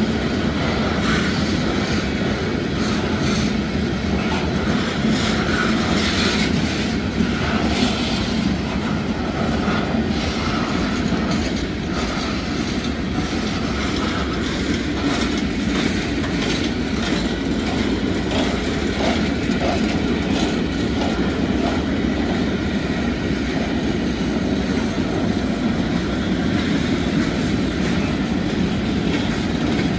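Freight cars of a manifest train rolling past: a steady rumble with the steel wheels clicking and clacking on the rails.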